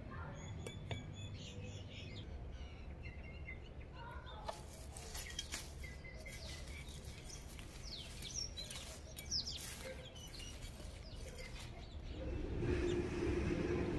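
Birds chirping, with short high calls and quick whistled glides, over a few faint clicks and rustles. A louder steady low drone comes in near the end.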